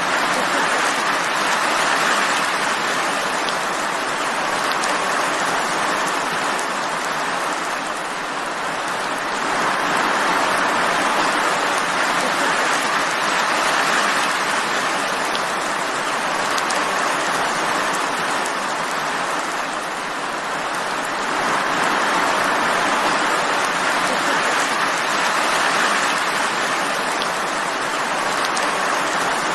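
Steady heavy rain falling, a dense even hiss that swells and eases gently every few seconds.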